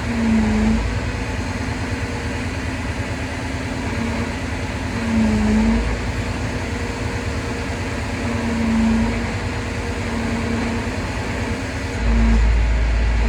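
Crane truck engine running steadily, with a short humming tone that comes and goes several times. A deeper rumble sets in near the end.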